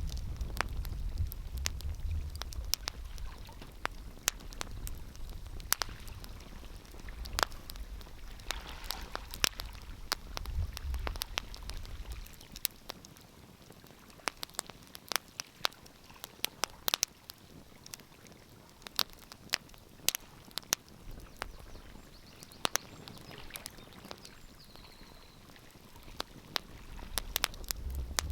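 Wood fire crackling, with frequent irregular sharp pops and snaps. A low rumble runs under it for the first twelve seconds or so, drops away, and comes back near the end.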